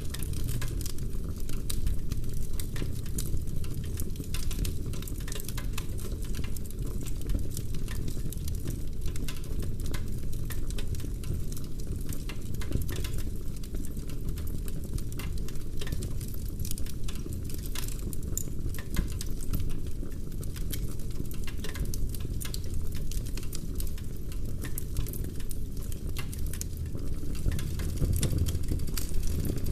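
Wood fire burning in a fireplace: the logs crackle and pop constantly over a steady low rumble from the flames.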